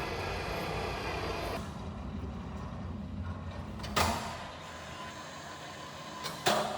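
Steady noise that drops away about a second and a half in, then two sharp thuds of car doors being shut, about four seconds in and again near the end.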